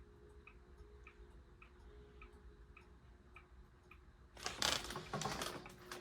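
SMC A52 ceiling fan running at medium speed with a steady low hum and an even tick, a little under two a second. About four and a half seconds in, a loud rattling, clattering burst of handling noise comes over it.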